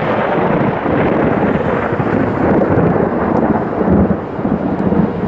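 Thunder rumbling continuously from a severe thunderstorm, loud and heavy, with a brief dip about four seconds in.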